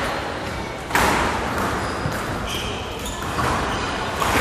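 Squash ball smacking off rackets and the court walls during a rally, sharp echoing hits, a loud one about a second in and another near the end.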